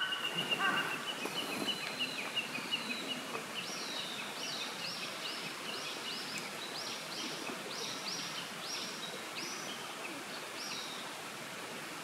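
Birds singing over a steady outdoor hiss. First comes a rapid run of short high notes falling slightly in pitch. From a few seconds in, a regular series of high sweeping notes follows, about two a second.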